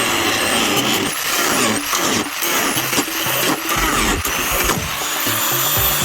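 Power cutting tool, most likely an angle grinder, slicing into the washing machine's sheet metal: a loud continuous grinding noise with a high whine that rises and falls as the disc bites and eases. Background music plays underneath.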